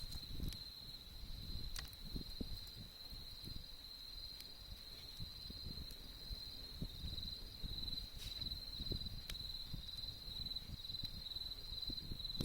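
Autumn crickets trilling steadily in a high, pulsing chorus, with a few sharp pops from a wood campfire and a low crackling rumble of the burning fire beneath.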